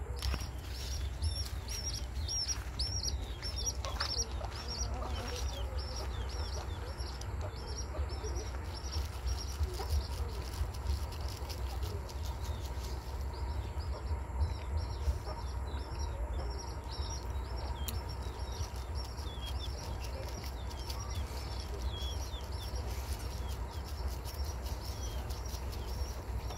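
A bird chirping over and over in the background, short high calls about three a second, fading in the middle and coming back, over a low steady rumble.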